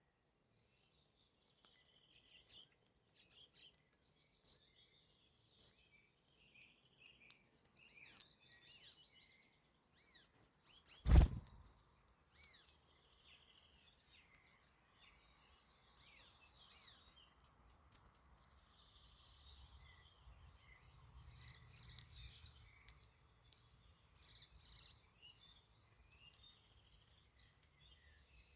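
Several small songbirds chirping and singing in short phrases, with one sharp knock about eleven seconds in.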